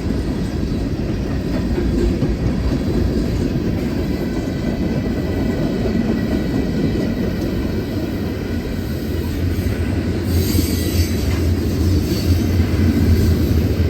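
CSX freight train rolling past, its wheels clacking over the rail and giving off a thin, steady squeal. About ten seconds in, a louder low hum and a hiss join in.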